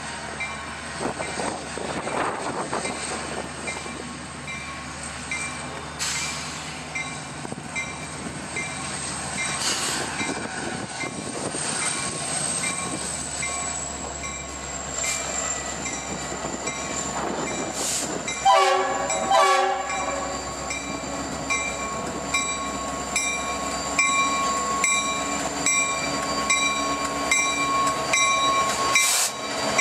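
Diesel freight train led by a Susquehanna SD70M locomotive approaching and passing. A locomotive horn sounds two short blasts about two-thirds of the way through, and a steady whine joins the engine rumble as the locomotives come close.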